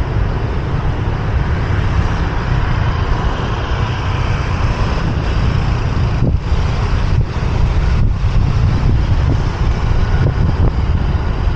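A motorbike riding through city traffic: steady wind rumble on the microphone over engine and road noise, with a few brief dips in the noise in the middle.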